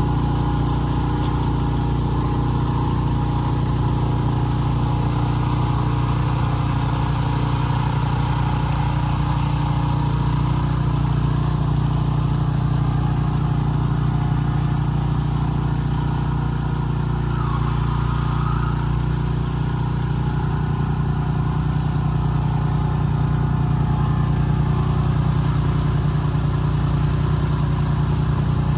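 Benchmark 30-inch tracked snowblower's 420cc engine running steadily at working speed while it clears snow.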